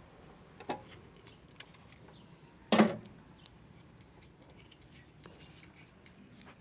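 A few light clicks and one sharp knock about three seconds in, from a fridge thermostat and small parts being handled.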